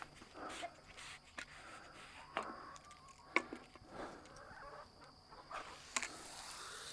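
Faint clicks and knocks of a rabbit's water bottle being handled while it is refilled, then a steady rush of water pouring into it starting near the end.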